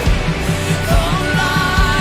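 Live worship band music with a steady drum beat and sustained sung notes.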